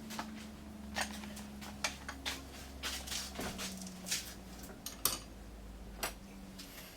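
Scattered metal clinks and knocks of tools and parts being handled during engine removal, over a steady low hum that stops near the end.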